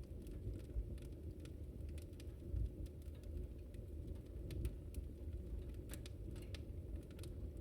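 Wood fire burning with a steady low rumble and irregular crackles and pops from the burning wood, a few each second.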